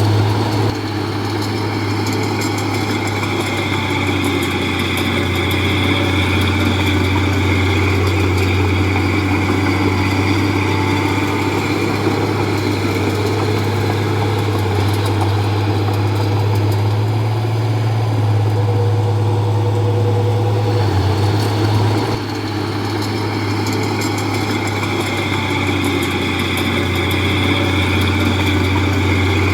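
Komatsu D31P crawler bulldozer's diesel engine running steadily while working, with a strong low engine note. The level drops briefly about half a second in and again about 22 seconds in.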